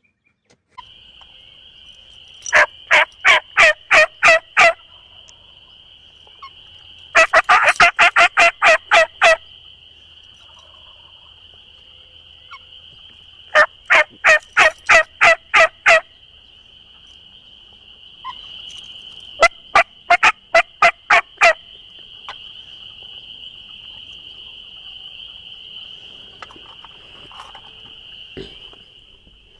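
Turkey calls: four loud runs of rapid, evenly spaced notes, seven to nine in each, a few seconds apart. A steady high-pitched chorus runs beneath them.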